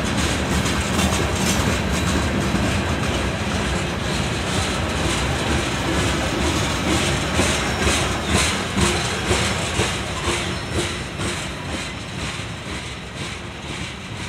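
A train passing, its wheels clicking over the rail joints in a steady rhythm of a few clicks a second, fading as it moves away over the last few seconds.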